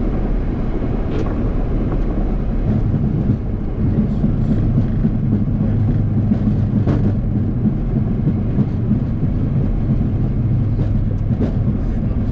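Steady rumbling, rushing noise on the flight deck of a Boeing 737 MAX 8, with a few faint clicks.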